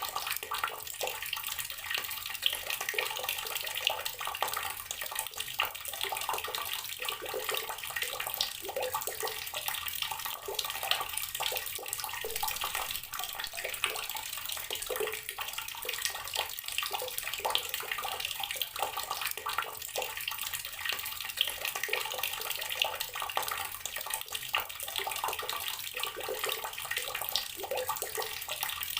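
Water running steadily from an outdoor tap, splashing as it falls, without pause.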